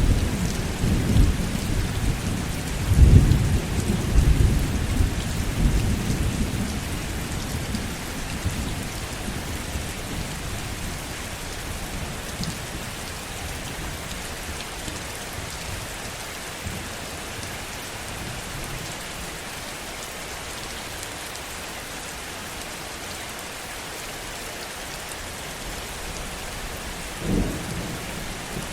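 Heavy rain falling steadily, with a low roll of thunder in the first several seconds that fades away, and a brief low rumble near the end.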